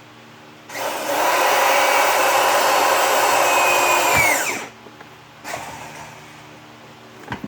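Electric drill running for about three and a half seconds as it bores a hole through the flattened end of a copper pipe, its pitch falling as it winds down. A sharp knock near the end.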